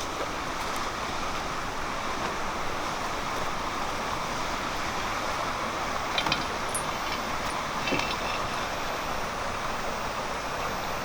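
Steady rushing noise, with a couple of brief clicks or knocks about six and eight seconds in.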